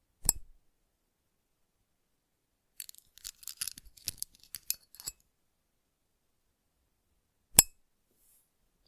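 Close-miked clicks of small objects being handled: one sharp click, then about two seconds of crisp light clicking and ticking, then a second sharp click near the end, with dead silence between.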